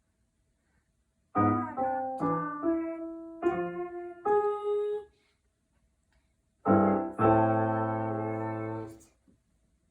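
Piano playing a short run of single notes, then after a pause a chord and a long held chord that fades and stops about nine seconds in.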